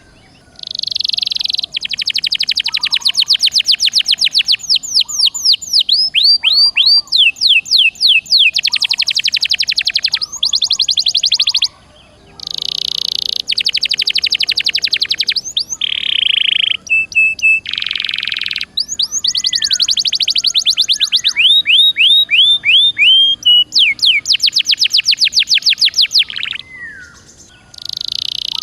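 Domestic canary in full song, delivering long, rapid trills of repeated high notes with some falling sweeps, and pausing briefly twice between phrases.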